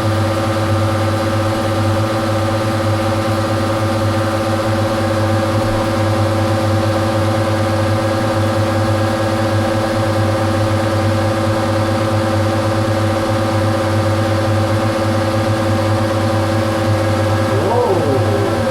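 Metal lathe running steadily during a turning pass, its spindle and gearing giving a constant hum with several steady whining tones. Near the end a tone briefly glides up and back down.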